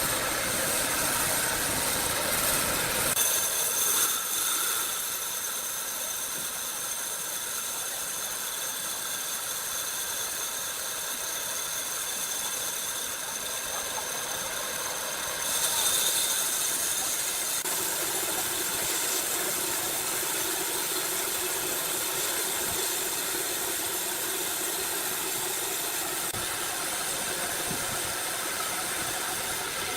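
Sawmill machinery running steadily. A thin high whine sounds from about three seconds in until just past halfway, with a brief louder surge near the middle, then a lower steady hum takes over.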